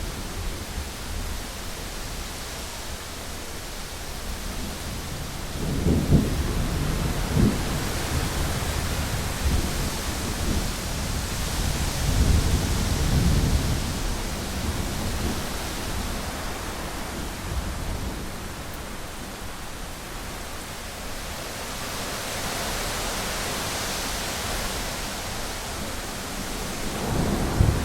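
Heavy rain falling steadily on a window, with thunder rumbling low several times: a roll about six seconds in, a longer one a few seconds later, and a short one near the end.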